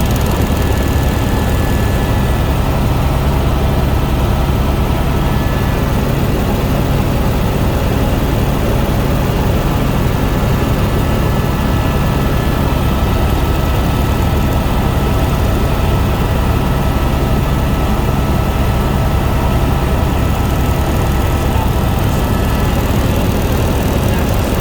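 Helicopter in flight: a steady, loud drone of rotor and engine, with a few faint steady whining tones over it.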